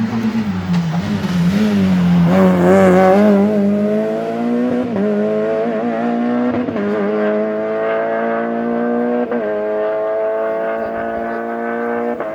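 Rally car engine at full attack on a special stage: the pitch drops as the car slows for a corner, then rises steadily as it accelerates away, with brief breaks at gear changes about five, seven and nine seconds in.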